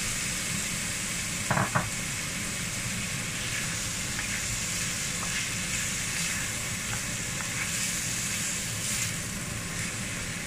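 Chicken pieces and chilli paste sizzling in a wok while a wooden spatula stirs them. Two sharp knocks of the spatula on the wok come about one and a half seconds in, the loudest sounds here.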